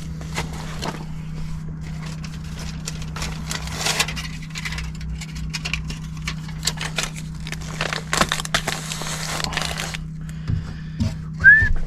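Small metal clicks, clinks and scrapes of tools and parts being handled, over a steady low hum. Near the end comes a short whistled note that rises and falls.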